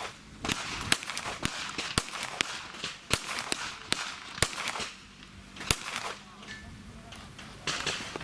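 Handgun shots fired at an IPSC match stage: about eight sharp reports at uneven intervals, in pairs and singles with short gaps between them, stopping about six seconds in.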